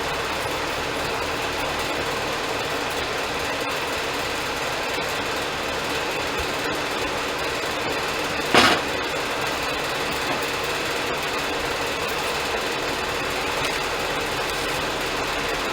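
Portable bandsaw sawmill running steadily with an even engine drone, and one brief loud, rising squeak about eight and a half seconds in.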